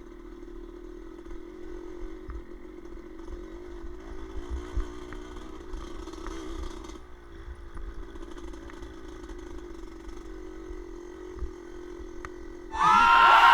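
An engine running steadily with a slightly wavering hum and a low rumble. Near the end a much louder sound with many sliding pitches cuts in abruptly.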